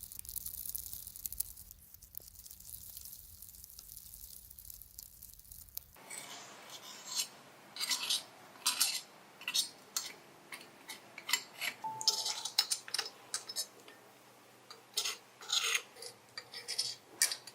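Small hand tools working on small metal parts: a soft hiss for the first several seconds, then from about six seconds in a run of irregular light clinks, taps and short scrapes.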